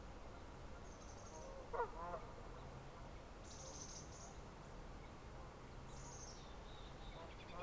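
A bird gives a short honking call in two quick notes about two seconds in, the loudest sound here. Thin high chirps of small birds come a few times, over a steady background of wind and flowing water.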